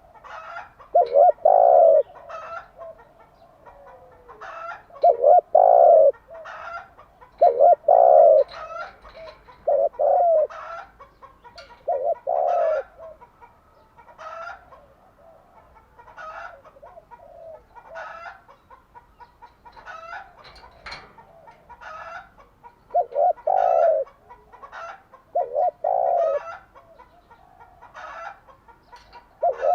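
Spotted dove cooing its repeated song phrases, a cluster of low coos every few seconds with a quieter stretch in the middle. Fainter, higher bird calls fall between the coos.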